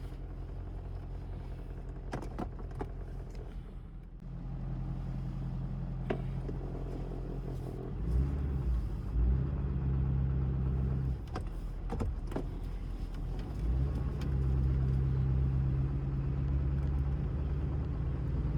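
Car engine and road noise heard from inside the vehicle while driving, a low rumble that grows louder in steps several times as the car picks up speed, with a few faint sharp clicks.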